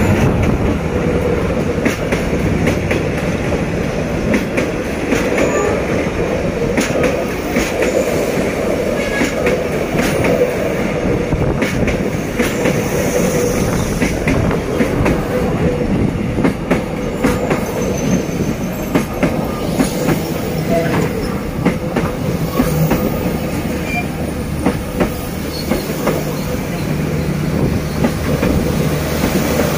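Passenger coaches of a train rolling past close by: a steady rumble of wheels on rail with many sharp clicks as the wheels cross rail joints. In the first few seconds the low hum of the D19E diesel-electric locomotive's engine is heard as the locomotive goes by.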